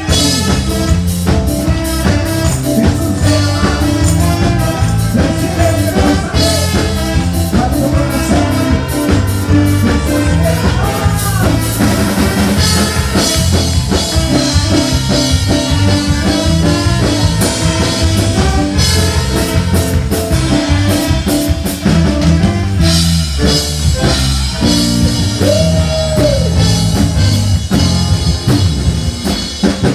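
Live band music with a steady drum-kit beat, bass and other instruments; a sung melody may run over it.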